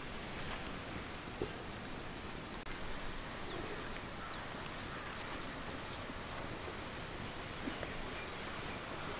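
Steady outdoor background noise with a bird's quick, high chirps in two short runs, one just after the start and one in the middle.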